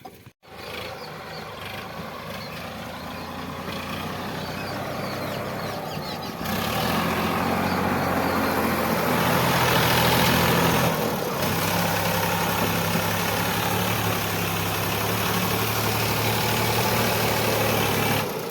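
Sonalika DI 745 tractor's diesel engine running steadily. It grows louder over the first ten seconds or so, with a few abrupt shifts in level.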